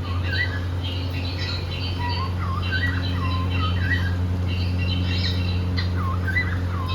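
Cockatiel giving repeated short, swooping chirps and squawks in quick clusters, over a steady low hum.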